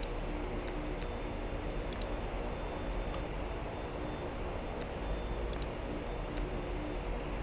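Jet airliner engines running steadily: an even rush of noise over a low rumble, with a faint steady hum.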